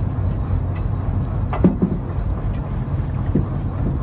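Fishing trawler's engine running steadily, with a few short knocks on deck partway through.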